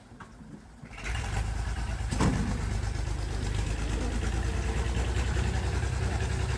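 A vehicle engine comes in suddenly about a second in and then runs steadily with a low rumble. There is a single knock about two seconds in.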